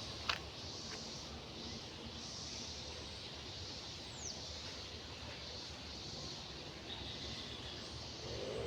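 Outdoor ambience with small birds chirping in repeated high notes and one whistled note falling in pitch about halfway through, over a steady background hiss. A sharp click comes just after the start, and a passing vehicle's engine begins to rise in pitch near the end.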